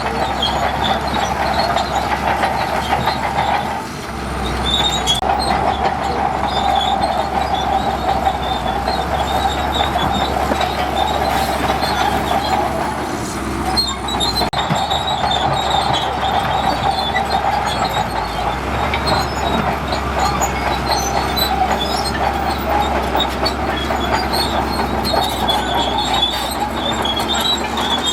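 Crawler bulldozer working, its engine and steel tracks making a steady mechanical clatter with a constant high whine and scattered ticks. The sound eases briefly twice, about 4 and 14 seconds in.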